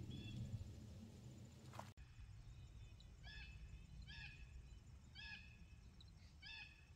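A bird giving faint, harsh, repeated calls, four of them about a second apart in the second half: an angry alarm, set off either by people nearby or by a predator.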